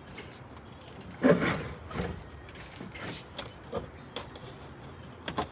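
Handling noise as camper parts are lifted into place: scattered knocks and rubbing, with a short voice-like sound, the loudest thing, about a second in.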